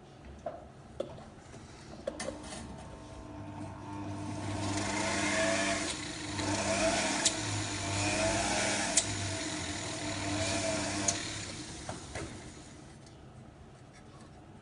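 Power drill boring out holes in a metal front grille. It starts about two seconds in, gets louder and wavers in pitch as it bites, and eases off after about ten seconds.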